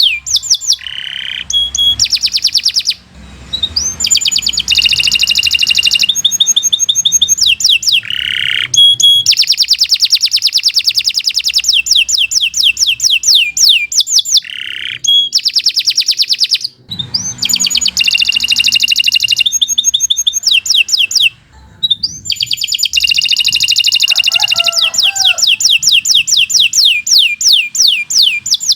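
Domestic canary singing a long, fast song of rapid trills and repeated notes, broken by a few brief pauses.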